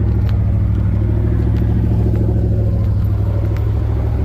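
Chevrolet plow truck's engine idling steadily, with a low, even hum that sounds kind of funky.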